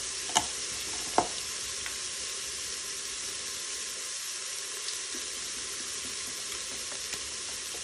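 Onion, fennel and garlic sizzling in hot oil in an Instant Pot on sauté, a steady hiss, with two sharp clicks about half a second and just over a second in.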